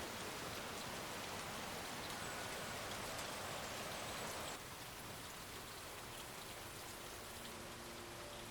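Steady rain falling, a continuous even hiss. It drops a little in level about halfway through.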